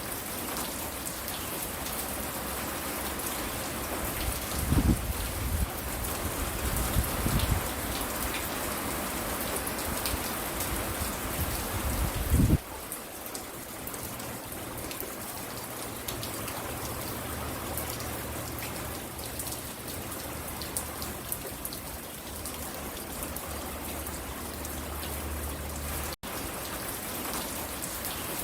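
Steady rain falling and spattering on the porch, a continuous even hiss. In the first half a few loud, low rumbles or thumps rise over it, the last one cutting off suddenly.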